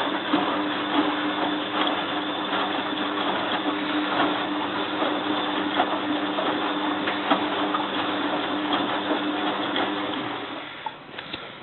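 Bosch WFF2000 front-loading washing machine running on a spin, a steady motor hum with a few held tones and light clicks. The hum winds down about ten seconds in as the spin stops.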